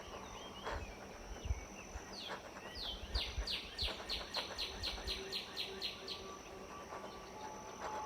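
A songbird singing a trill of repeated downslurred notes, about four a second, for around four seconds starting about two seconds in, over a faint steady high-pitched hum.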